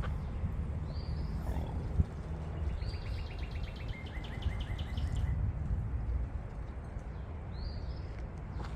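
Wild birds calling in woodland: short high slurred notes about a second in, again near three seconds and near eight seconds, and a rapid trill of repeated notes from about three to five seconds. A steady low rumble runs underneath, with one sharp knock about two seconds in.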